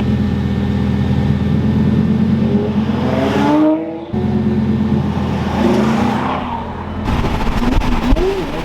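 Car engine breathing through a straight-piped cat-back exhaust, running and revving, its pitch climbing about three seconds in and dropping away suddenly near four seconds, then running on with a change in its sound about seven seconds in.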